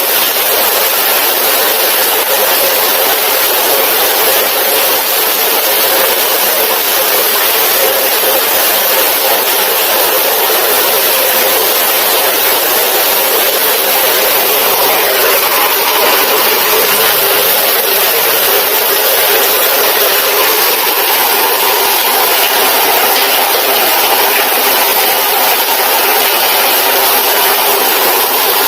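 Heavy tropical rain pouring down steadily: a loud, dense, even hiss.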